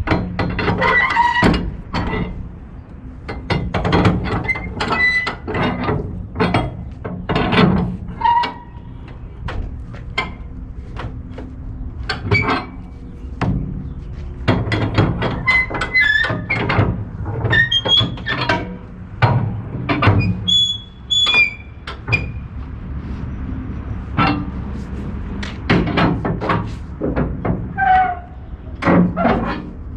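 Repeated metallic knocks and clanks, some briefly ringing, from strapping steel coils down on a flatbed: strap hooks and ratchets against the steel deck and load, over a steady low hum.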